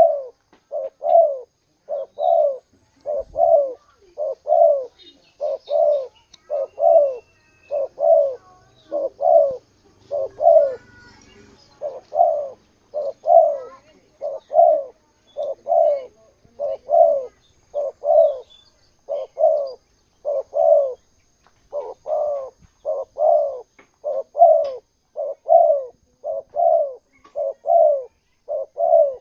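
Spotted dove (tekukur) cooing over and over in a steady series of short, low coo notes, about three every two seconds. A few faint higher chirps from other birds show up here and there.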